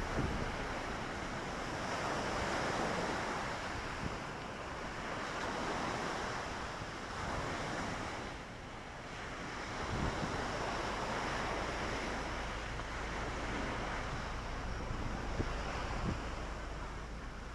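Lake Victoria waves washing onto the shore, the surf swelling and easing every few seconds, with wind on the microphone adding a low rumble from about halfway in.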